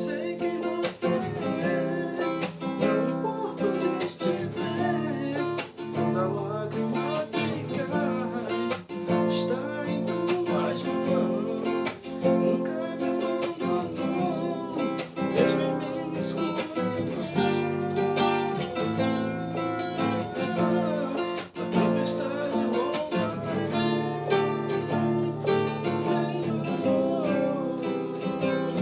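Acoustic guitar strummed and picked through a song, with a voice singing along.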